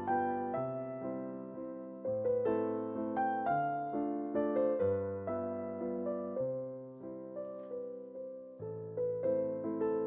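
Background piano music: a light, gently lilting piano piece with a melody over a steady bass line.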